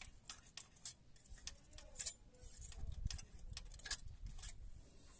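Irregular light metal clicks and scrapes of a feeler gauge being slid in and out under the rocker arms of a VAZ 2103 engine, checking the clearance on valves 1 and 3 with the engine stopped. There is a dull bump about three seconds in.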